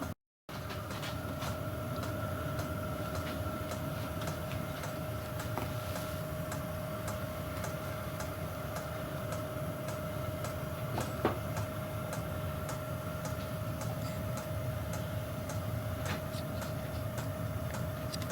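A workshop machine tool running steadily: its motor holds a constant whine over a low rumble, with a few light ticks and one sharper click about eleven seconds in.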